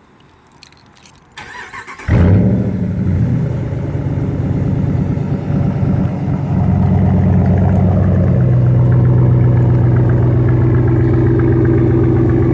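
Dodge Ram Hemi V8 with a Y-pipe muffler delete starting up: brief starter cranking, then it fires about two seconds in with a loud flare. It settles into a steady, loud idle through the open exhaust, the tone of the idle shifting a few seconds later.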